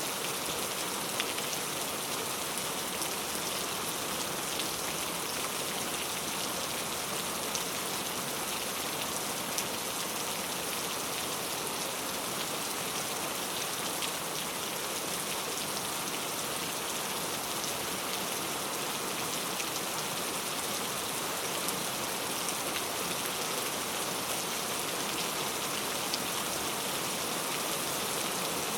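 Steady rainfall: an even hiss of rain with scattered sharper drop ticks.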